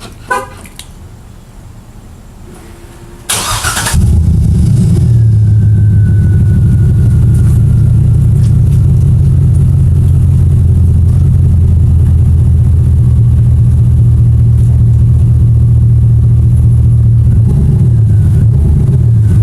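GMC three-quarter-ton pickup's 6.0 gas V8 starting about three seconds in, then idling loudly through a freshly tack-welded Flowmaster Super 44 muffler. Its pitch rises and falls slightly near the end.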